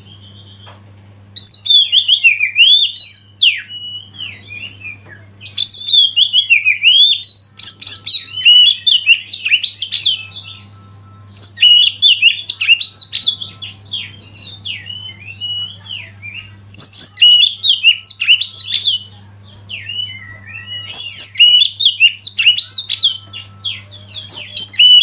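Oriental magpie-robin (kacer) singing loud, rapidly varied phrases of whistles and chattering notes, each phrase a few seconds long with short pauses between. A low steady hum runs underneath.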